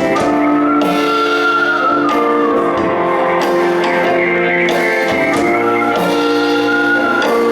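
Live band playing an instrumental passage with no singing: guitars with sustained chords and a melodic line that slides up and down in pitch.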